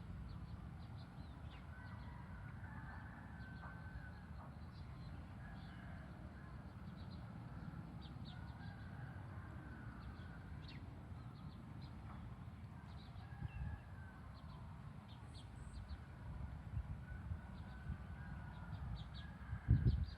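Birds calling in the countryside: many short high chirps and some longer, lower calls over a steady low rumble. A louder thump comes right at the end.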